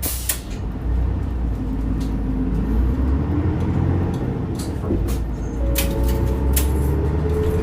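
Route bus heard from inside while under way: the engine and drivetrain run with a steady low drone, and short rattles and clicks come from the body. A whine rises in pitch near the end.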